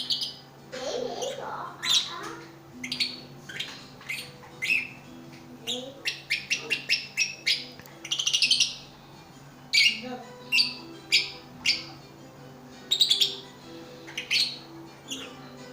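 Pet birds chirping: many short, sharp high chirps, coming in quick runs about six to nine seconds in.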